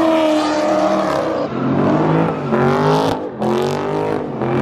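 Car engine held at steady high revs, then revved up twice in quick rising surges.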